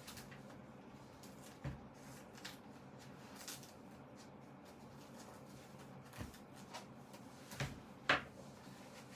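Handling noise as a zippered synthetic-leather Bible cover is taken apart: scattered light knocks and rustles, the sharpest about eight seconds in.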